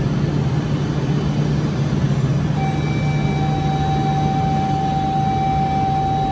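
Shinkansen train noise at a station platform: a steady low rumble. About two and a half seconds in, a steady high tone joins it and holds.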